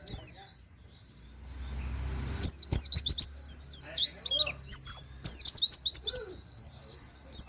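Pleci (white-eye) singing: fast runs of high, quick down-slurred 'wit wit' notes with canary-like phrases. It is quiet for about two seconds near the start, then the song comes back in rapid, almost unbroken bursts.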